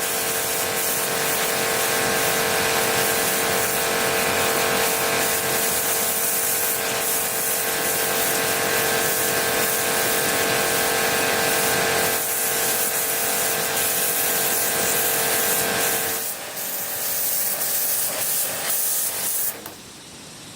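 A power tool running steadily with a high whine over a hiss, which stops about sixteen seconds in. Rougher noise follows, then the level drops sharply near the end.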